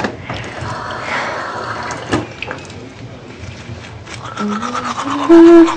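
Water running from a tap into a sink, with a single knock about two seconds in; the flow fades out after about three seconds.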